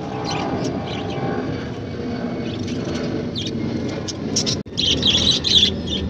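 Small birds chirping in quick high notes over a steady low background noise. The chirping grows dense and louder after a brief break about two thirds of the way in.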